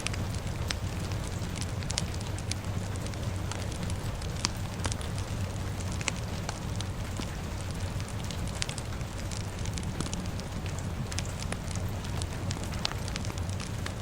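Crackling fire: many sharp, irregular pops over a steady low rumble, mixed with a steady hiss of rain.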